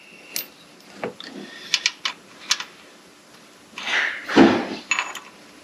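Scattered sharp clicks and knocks of hand tools and metal parts being handled during engine work. About four seconds in comes a longer, louder rushing noise.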